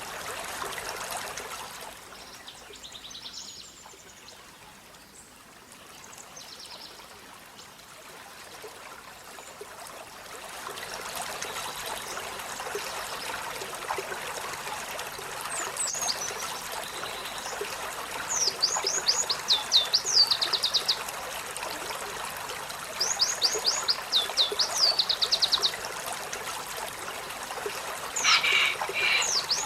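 Olive-backed sunbird singing in several short bursts of rapid, high, falling notes, mostly in the second half, over a steady trickle of running water.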